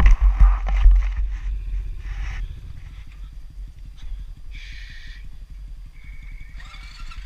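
Honda TRX680 ATV's single-cylinder engine idling with a fast, even putter; loud rumbling and knocks in the first second or so.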